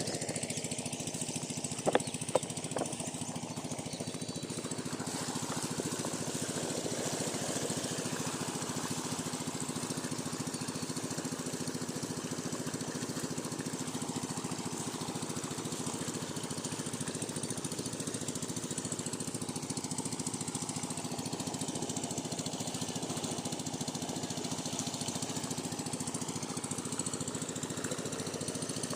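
Single-cylinder 8 hp diesel engine of a water pumpset running steadily with an even, rapid thump. A few sharp clicks come about two seconds in.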